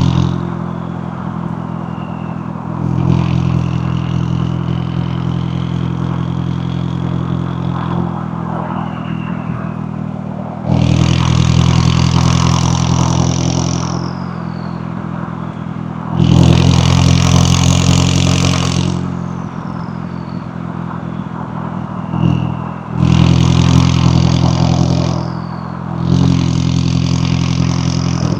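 McLaren 570S twin-turbo V8 and exhaust running steadily, then opening up for four hard pulls of a few seconds each in the second half, each with a high whine that climbs and then falls away as the throttle closes.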